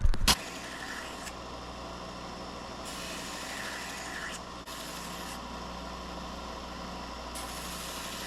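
Belt grinder running with a higher-grit sanding belt while Damascus knife blades are ground on it: a steady motor hum under a broad sanding hiss that grows and fades several times. A short loud sound comes right at the start.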